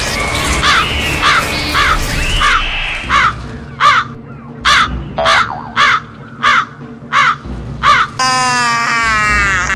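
Crows cawing: a dense flock of overlapping calls at first, then single loud caws about every 0.7 seconds. Near the end a long, wavering harsh screech is held for about a second and a half.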